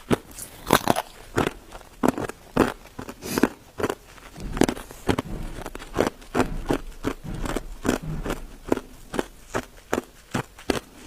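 Ice being bitten and chewed: an irregular run of sharp, crisp crunches, about two or three a second.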